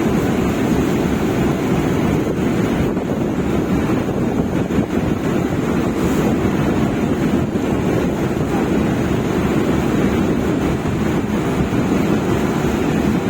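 Steady rush of wind buffeting the microphone over the sound of ocean waves, without a break.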